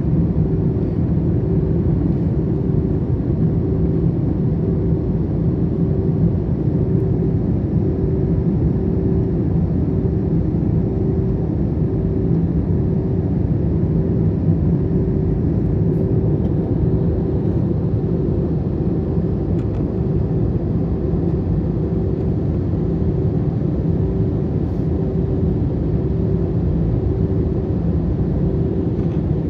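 Steady cabin noise of an Airbus A321 airliner descending on approach: a constant low rumble of engines and airflow, with a faint steady hum running through it.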